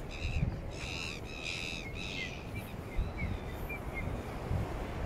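A bird calling: four short, high calls in the first two seconds, then a run of quick chirps, over a steady low rumble.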